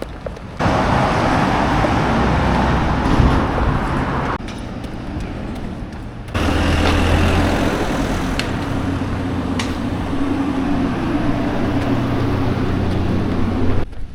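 Road traffic running close by, with a steady low engine hum from a large vehicle in the second stretch. The noise comes in two stretches that start and stop abruptly, about half a second in and again about six seconds in.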